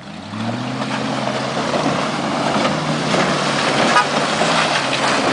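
Land Rover Discovery's engine revving up about a third of a second in and then pulling steadily under load as it drives through a river, with water splashing and churning around the vehicle.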